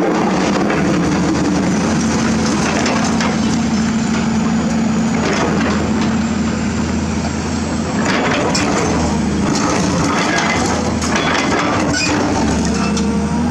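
Excavator's diesel engine running steadily under load while the bucket scrapes and crunches through rubble and soil, with scattered cracks and grinding, busiest in the later part.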